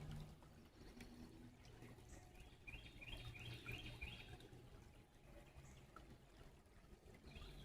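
Faint birdsong: a run of quickly repeated high chirps about two and a half seconds in, and another starting near the end, over faint steady low background noise.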